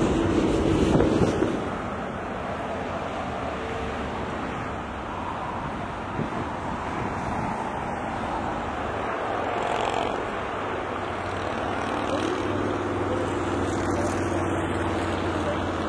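Steady vehicle engine rumble with wind noise, louder for the first second or so, then even.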